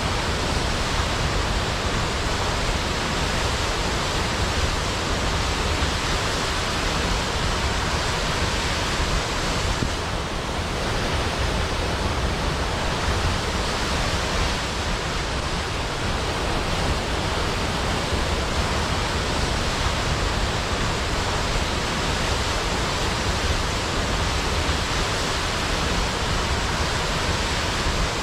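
Large waterfall with a steady, even rush of falling water.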